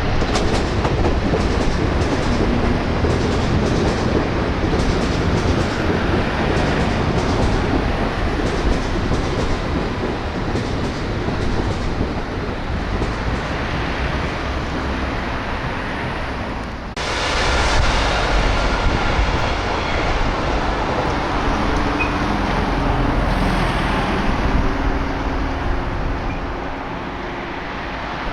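Train running through a station, its wheels clattering over the rail joints with a quick run of clicks in the first half. The sound breaks off abruptly about two-thirds of the way through, and a similar loud train rumble continues after it.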